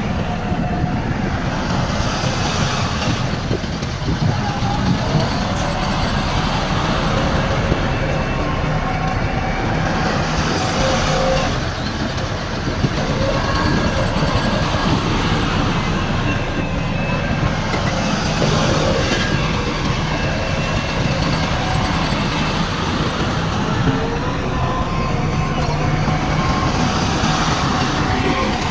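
Heavy diesel earthmoving machinery working steadily: a bulldozer's engine running, with short high squeaks scattered through.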